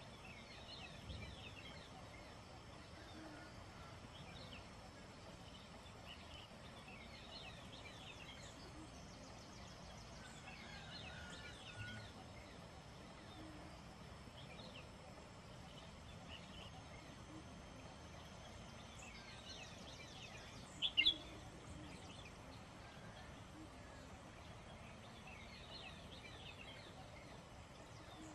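Wild birds chirping in scattered bursts of short high calls every few seconds, over a steady faint hiss. A louder burst of calls comes about two-thirds of the way through.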